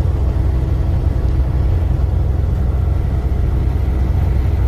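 Semi-truck's diesel engine running with a steady, loud low rumble.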